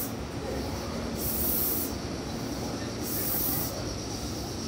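Red Meitetsu electric train arriving at the platform: a steady low rumble of wheels on rails. Over it, a high hissing sound comes and goes about every second and a half.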